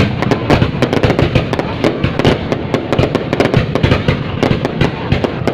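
Fireworks going off in a dense, continuous barrage: many sharp bangs and crackles a second over a steady rumble.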